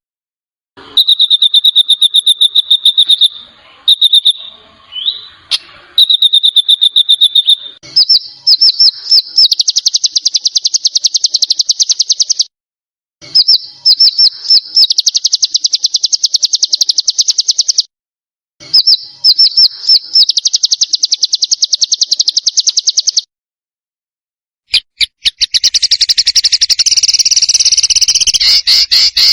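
Songbird trills: very fast strings of sharp repeated notes, high-pitched, in runs of a few seconds that stop abruptly, the same phrase coming round again and again like a loop. Near the end a harsher, rasping trill takes over.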